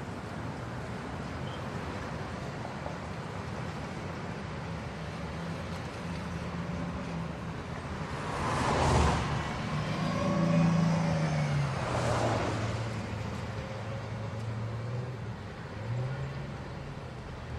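Cars passing close by: one swells and fades about halfway through and another a few seconds later, with a low engine hum in between, over a steady rushing noise.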